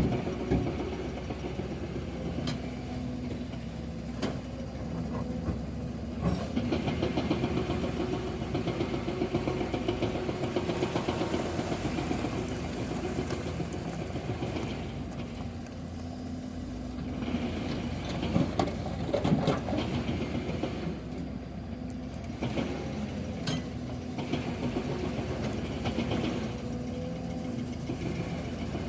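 Heavy diesel engine running steadily, with a few sharp knocks.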